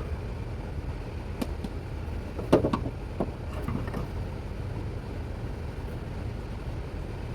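A few sharp metallic clinks and knocks, the loudest about two and a half seconds in, as the loosened transmission support and its parts are handled and pulled free. A steady low hum runs underneath.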